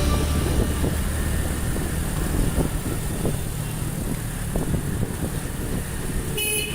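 Road traffic noise: a steady low engine rumble with an even haze of road noise and a few faint knocks, and a short high-pitched sound near the end.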